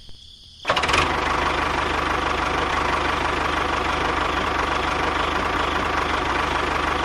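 A small motor starts abruptly just under a second in and runs steadily with a fast, even pulsing, like an engine at idle.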